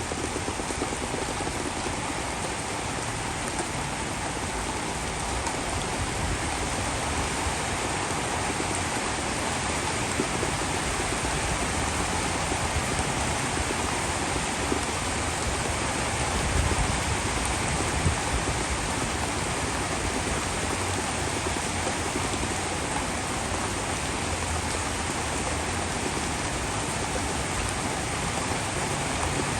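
Heavy rain falling steadily in a dense, even hiss, briefly louder with a low swell just past the middle.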